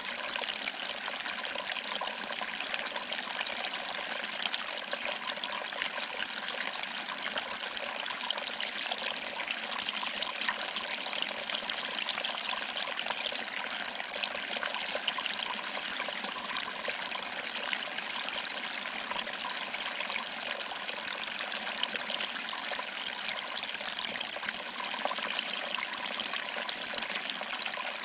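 Small waterfall: water trickling over rocks and splashing into a pool below. It makes a steady, even, bright rush with little deep rumble.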